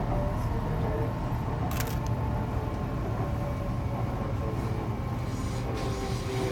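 Inside a moving Canada Line SkyTrain car: a steady low rumble of the train running on its guideway, with a faint steady whine, and a single sharp click about two seconds in.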